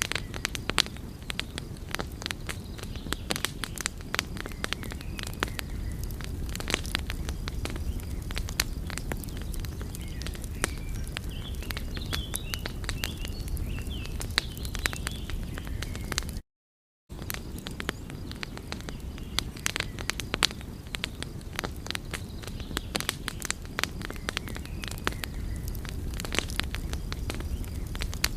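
Wood fire crackling: frequent irregular sharp pops and snaps over a low steady rumble. The sound cuts out completely for about half a second a little past the middle.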